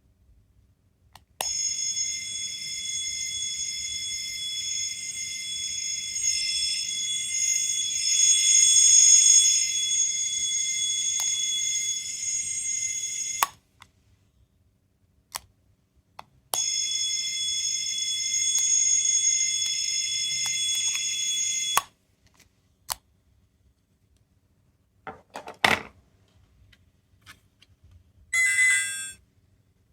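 Small electronic sound gadget from a capsule toy giving a steady high-pitched alarm-like ring of several tones for about twelve seconds, then again for about five seconds after a short pause. A few clicks and a brief high burst follow near the end.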